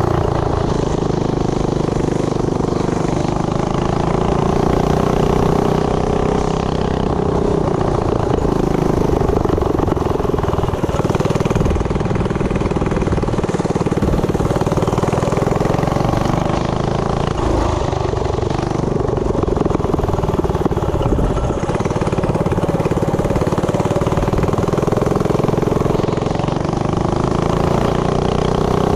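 Tillotson 212 single-cylinder four-stroke engine on a mini bike running, its revs rising and falling slowly.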